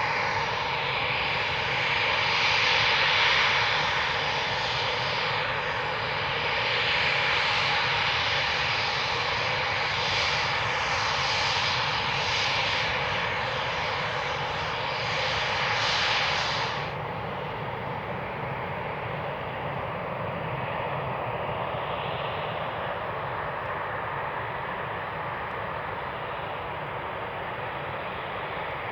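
Eurofighter Typhoon jets taxiing, their twin EJ200 turbofans running with a steady rushing whine. About two-thirds of the way through, the sound drops abruptly to a quieter, duller jet noise.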